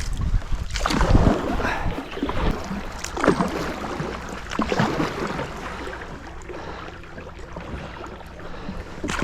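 Kayak paddle strokes splashing and dripping in shallow river water, irregular and busier in the first few seconds, then lighter.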